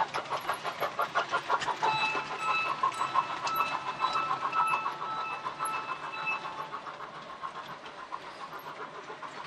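G scale model train running on the track, its wheels clicking rapidly and evenly over the rail joints, with short high tones repeating over it. The running grows fainter in the second half.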